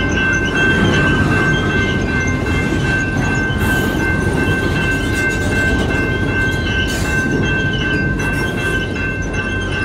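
Long freight train of autorack cars rolling slowly past, with a steady rumble of wheels on rail and a thin, steady high squeal from the wheels as the train slows under braking. Two brief clanks come about a third and two thirds of the way through.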